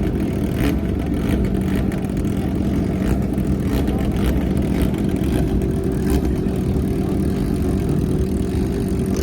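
A vehicle engine running steadily, with a low, even hum.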